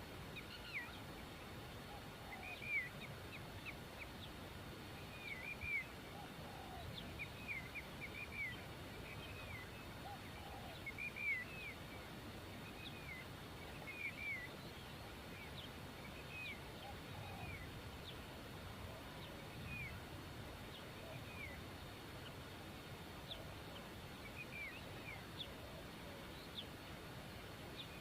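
Birds calling in short, arched chirps, repeated irregularly and often in quick pairs or runs, with a few fainter lower notes beneath.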